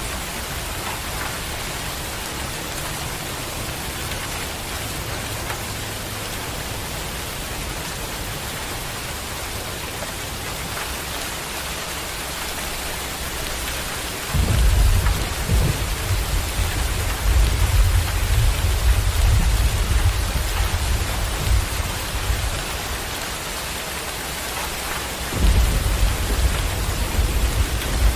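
Heavy rain falling as a steady, even hiss. About halfway through a deep, loud rumble sets in suddenly and lasts several seconds, then comes back near the end.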